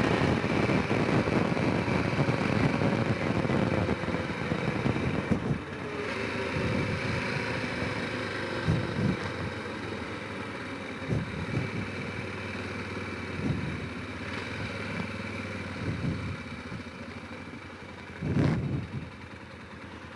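Honda Rincon 650 quad's single-cylinder engine running as it rides along. It is louder at first and eases off about five seconds in. Scattered low thumps sound through it, with a stronger one near the end.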